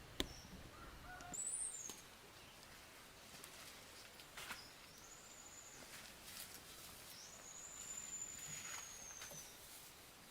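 Faint, high, thin bird calls in quiet woodland: a short rising-and-falling call about a second in, another arched call a few seconds later, then one long, slightly falling whistle. A single sharp click sounds just at the start.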